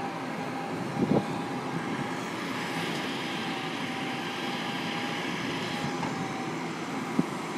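Self-loading log truck's engine running steadily while its grapple crane works, with a faint steady whine. A brief knock about a second in and another near the end.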